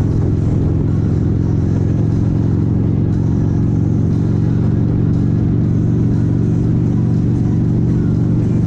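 Motorcycle engine running at a steady speed while riding, a constant low drone with a hiss of noise over it.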